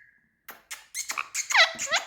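Indian ringneck parrot making short, high squeaky calls with quickly bending pitch, preceded by a couple of sharp clicks about half a second in.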